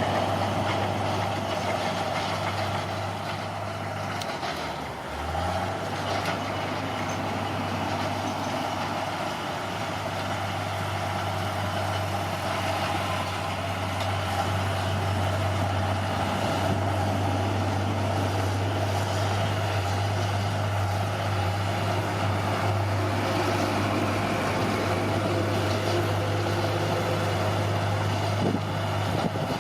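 Bulldozer's diesel engine running steadily at work. About five seconds in, the revs dip briefly and then climb back up.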